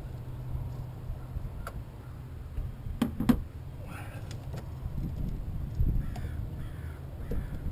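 A bird calling several times, with three quick, evenly spaced calls near the end, over a steady low hum. Two sharp clicks come about three seconds in.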